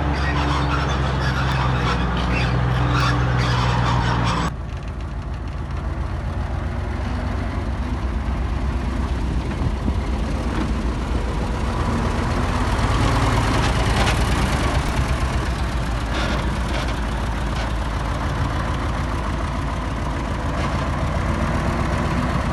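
Heavy diesel engine of earthmoving machinery running steadily under work. About four and a half seconds in, the sound changes abruptly to another steady, rougher engine noise.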